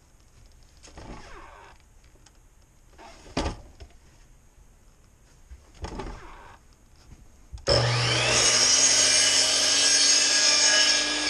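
A few light knocks of wood being handled, then about eight seconds in an electric power saw starts abruptly and runs loud and steady, cutting a 45-degree angle through a wooden board.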